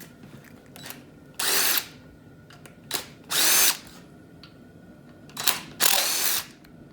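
Power impact gun spinning out bolts on a 5.3-litre LS V8's top end, in three short bursts a couple of seconds apart, each whirring up and back down in pitch.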